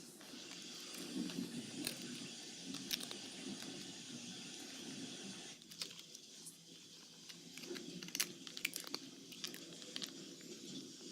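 A crisp packet crinkling and crackling as a cat claws and bites at it, trying to tear it open, with sharp crackles throughout.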